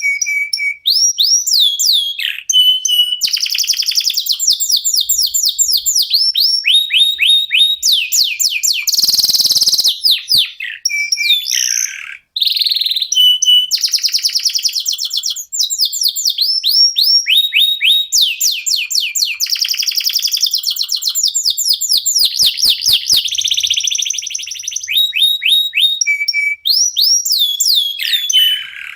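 Domestic canary singing a long, loud song of rapid trills and runs of quickly repeated downward-sweeping notes, breaking off briefly about twelve seconds in.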